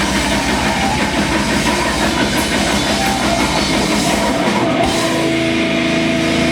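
Loud live rock band playing distorted guitars over fast, pounding drums; nearly five seconds in the drumming drops back and a held chord rings on.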